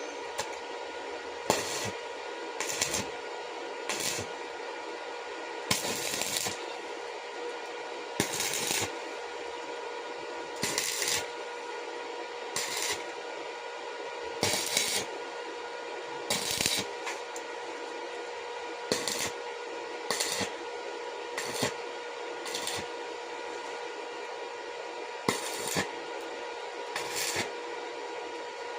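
Hand-tool work: short scraping or knocking strokes at an uneven pace, one every second or two, over a steady machine hum.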